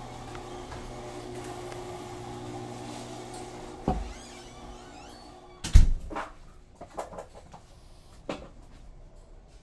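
Thumps and knocks of plywood being handled and set into place; the loudest thump comes just before six seconds in, with smaller knocks after it. A steady hum runs underneath and fades about halfway through.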